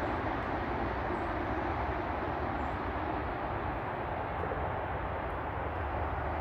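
Steady low rumble of an approaching freight train, still far off, led by an EMD SD70ACE diesel locomotive.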